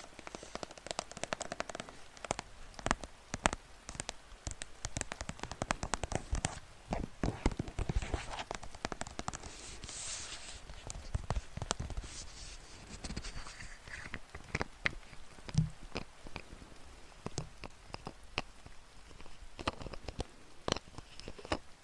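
Close-miked ASMR trigger sounds: dense, irregular crackling and tapping, with sharp clicks coming every fraction of a second throughout.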